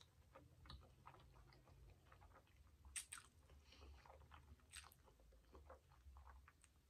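Faint close-miked mouth sounds of someone eating spaghetti with meat sauce: soft wet chewing clicks throughout, with sharper smacks about three seconds in and again near five seconds.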